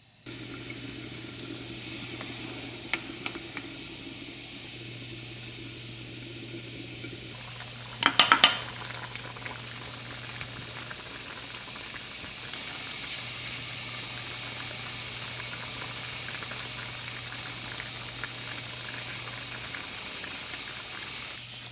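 Liquid boiling in a pot, a steady bubbling, with a brief clatter about eight seconds in.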